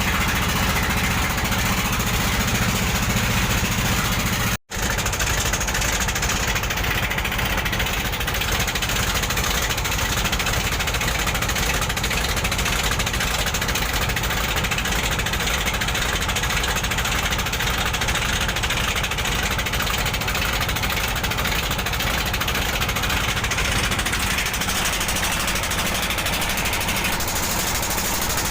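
Boat engine running steadily, heard on board, with a dense, even drone. It cuts out for an instant about four and a half seconds in.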